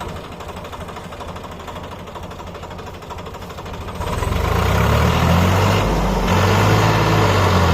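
Swaraj 744 FE tractor's diesel engine running at a steady chug, then about four seconds in it revs up and runs loud and hard, dipping briefly about two seconds later before picking up again.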